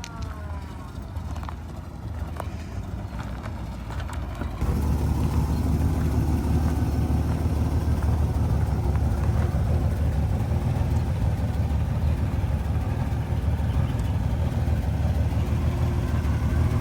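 A motor vehicle's engine running with a steady low rumble, which becomes much louder and fuller about four and a half seconds in.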